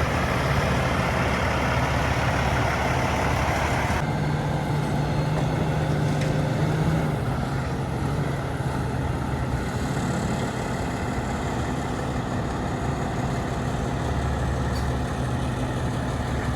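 A Freightliner Coronado SD122 heavy truck's diesel engine running steadily at idle. About four seconds in, the higher hiss drops away abruptly and the low engine sound carries on.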